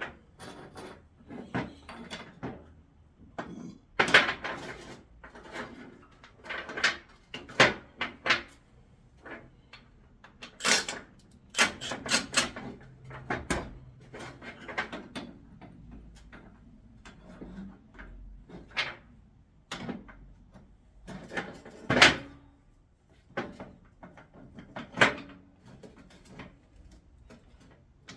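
Irregular clanks and knocks of hand tools and metal parts during work on a car's upper control arm bushings. The loudest strikes come about four seconds in, near eight seconds, and near the end.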